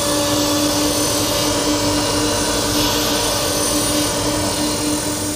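J-type automatic edge banding machine running, its motors giving a steady hum with a constant whine.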